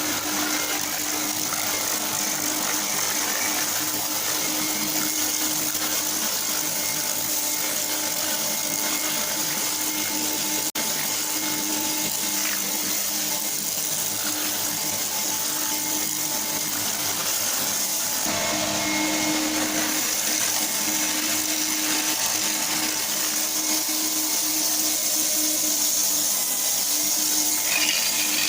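A small electric motor running steadily with a constant hum, like a power tool at work.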